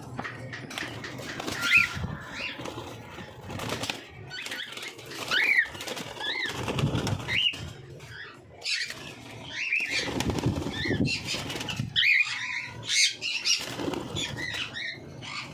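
Cockatiels calling in short rising-and-falling chirps, repeated every second or two, with wing flutters and rustling in between.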